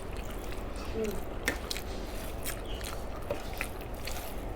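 Close-up eating sounds: chewing with scattered small, sharp mouth clicks over a steady low hum.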